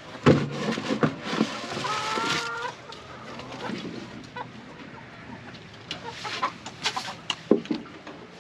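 Chickens clucking, with several loud calls in the first three seconds, then a quieter stretch broken by scattered knocks near the end.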